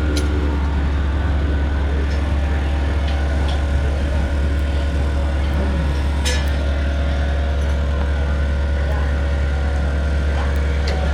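A steady low rumble with a few sharp clicks, the loudest about six seconds in.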